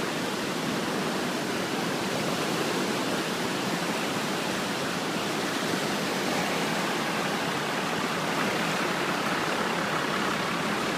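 Fourmile Creek in flood, fast water rushing steadily.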